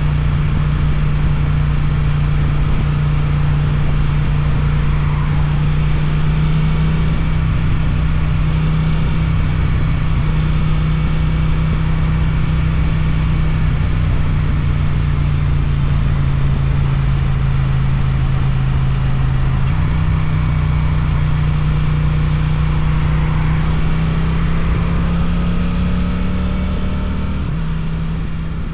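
Suzuki motorcycle's twin-cylinder engine through an Akrapovic exhaust, riding at steady revs. The pitch steps about two-thirds of the way through, climbs slowly near the end, drops suddenly, then the sound fades out.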